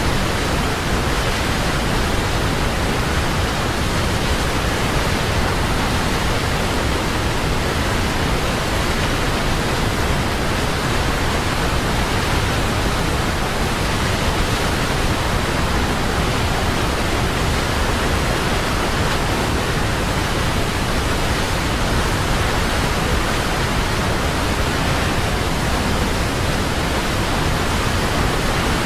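Large waterfall: a loud, steady rush of falling water with a deep rumble underneath and no breaks.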